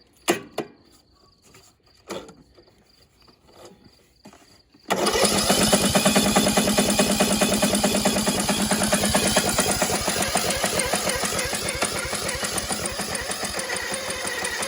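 Small lawn mower engine catching about five seconds in and then running steadily with a rapid, even beat, after a few scattered knocks. The engine has been shot, and the owners judge it "a little fucked".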